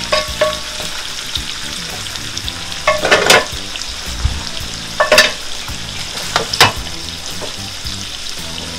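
Shrimp and beef cubes with their juices sizzling in hot oil in a nonstick wok as they are stirred with a wooden spoon. Three short, louder scrapes stand out, about three, five and six and a half seconds in.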